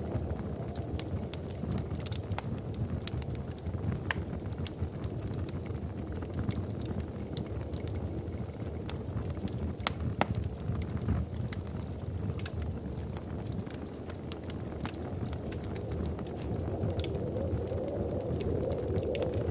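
Wood fire in a fireplace crackling, with a steady low rumble of burning and many sharp, irregular pops and snaps.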